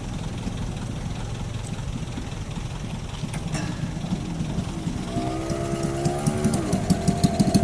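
Vehicle engines running: a steady low rumble, then about five seconds in a revving engine note comes in, rising, dipping and rising again as it grows louder.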